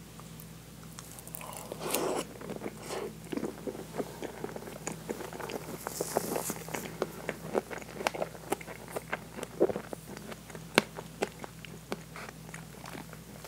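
A person chewing a mouthful of very soft French toast with whipped cream and strawberry, close to a clip-on mic: a run of quick wet mouth clicks and smacks. About six seconds in, a brief tissue rustle as the mouth is wiped.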